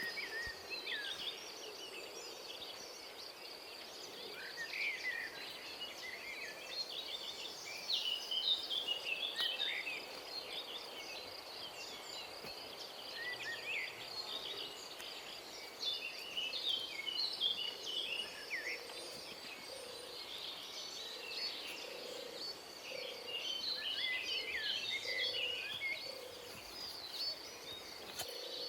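Forest ambience: many birds chirping and calling in scattered bursts over a steady, high insect drone.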